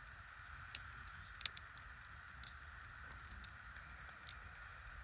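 A few sharp clicks and snaps from sticks and small branches being handled and broken, over a steady high hiss.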